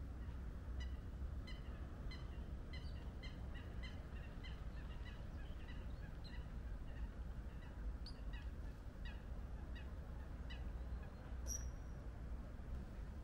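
A bird calling in a long run of short, sharp notes, about two a second, ending with one higher note near the end, over a low steady rumble.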